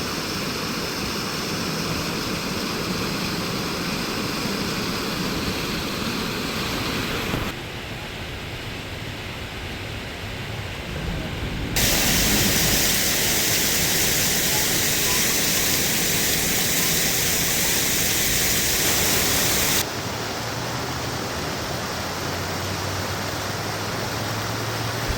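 Steady rushing noise of the high, fast river water, in stretches that change abruptly in loudness and brightness about seven, twelve and twenty seconds in; the third stretch is the loudest and hissiest.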